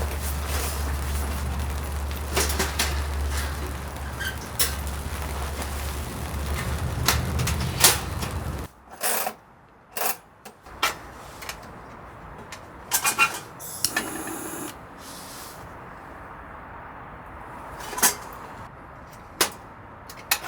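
Electric air pump running with a steady low hum for about nine seconds, then cutting off suddenly, followed by scattered knocks and clicks.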